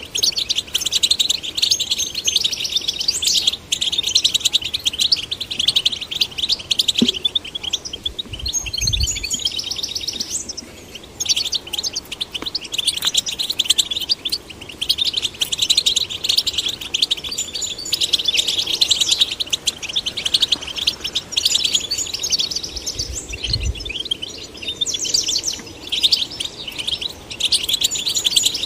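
European goldfinches singing: a fast, continuous twittering of high chirps and trills, broken by a short pause about ten seconds in. Two brief low thumps sound under the song, one about nine seconds in and one near twenty-three seconds.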